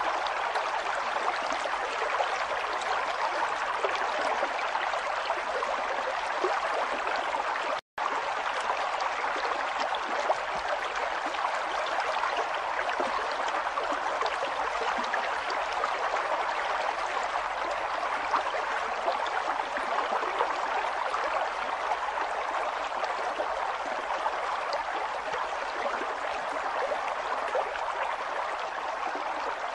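River water flowing and gurgling over stones in a steady rush, with small splashes throughout. The sound cuts out for an instant about eight seconds in.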